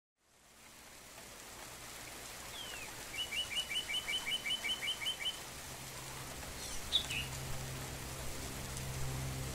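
Birdsong over a steady soft hiss, fading in from silence: a rapid trill of about a dozen chirps, about five a second, from about three seconds in, then a few brief higher calls around seven seconds. A low, steady music drone comes in during the second half.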